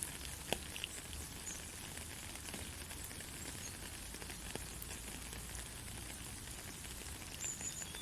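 Gentle rain falling steadily, an even hiss with scattered sharp drip ticks. A short faint high chirp comes near the end.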